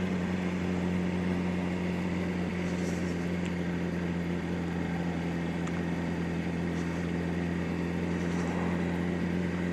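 Yamaha R1's inline-four engine idling steadily, with no revving.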